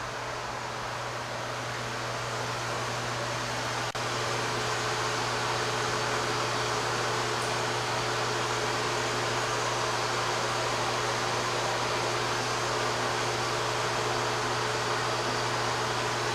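A steady mechanical hum and hiss with a constant low drone, and a single click about four seconds in, after which it runs slightly louder.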